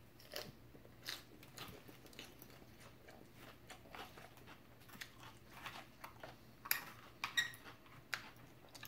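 Faint close-up chewing and crunching of a mouthful of lettuce salad, with scattered short clicks as a fork picks through the salad on the plate; the sharpest come in a cluster about seven seconds in.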